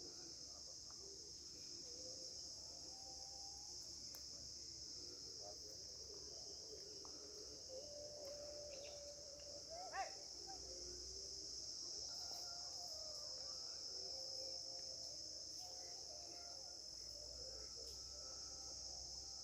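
Steady high-pitched insect chorus, a continuous shrill drone from crickets or similar insects. Faint wavering lower sounds run beneath it, with one short sharp call about halfway through.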